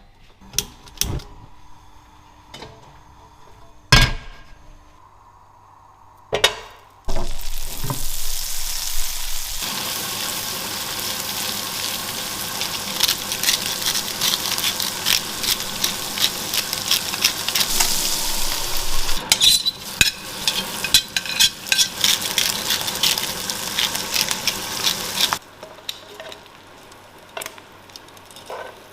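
Pieces of squid and whiting frying in hot oil: a loud, steady sizzle full of crackles that starts suddenly about seven seconds in and cuts off about twenty-five seconds in. Scattered knocks and clinks of kitchen utensils come before and after it.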